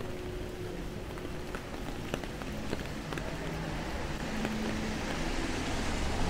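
Rain falling on wet city pavement, a steady hiss with scattered small ticks and a faint hum of street traffic, growing louder over the last couple of seconds.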